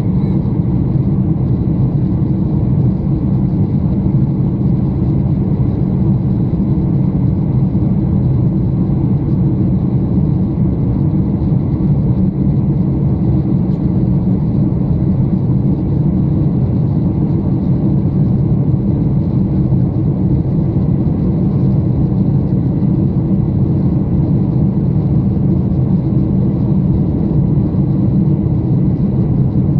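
Steady low drone of a Boeing 747 heard from inside the passenger cabin: engine noise and airflow, unchanging throughout.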